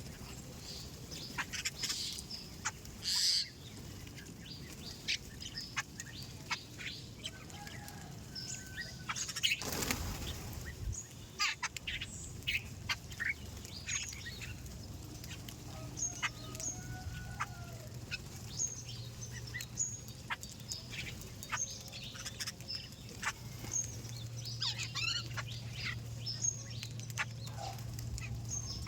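Many small birds chirping and twittering in short, rapid calls, with a brief rush of wing flapping about ten seconds in. A faint low hum runs underneath in the later part.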